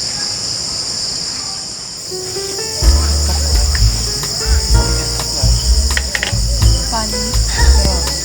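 Steady, shrill chorus of crickets. About three seconds in, background music with deep bass notes comes in over it.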